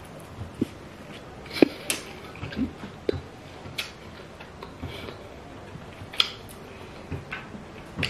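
Mukbang eating sounds: scattered wet lip smacks and mouth clicks from chewing fufu and light soup eaten by hand, coming at irregular moments with short gaps between them.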